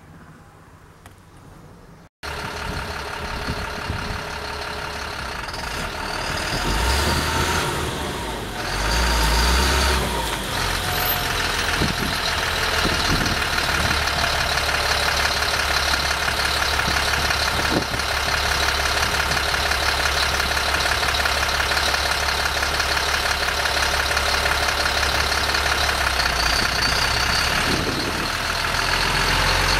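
GMC C6500 truck engine running, coming in abruptly about two seconds in, revving up briefly a few seconds later, then running steadily.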